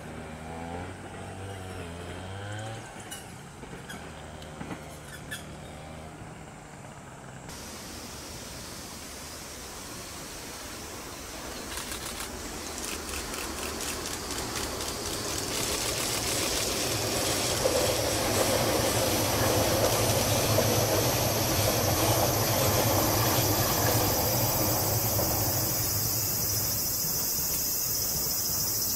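A train approaching and passing: its rumble builds to its loudest in the second half, with a run of rhythmic clicks as it nears. A high steady chirring of insects sets in about a quarter of the way through.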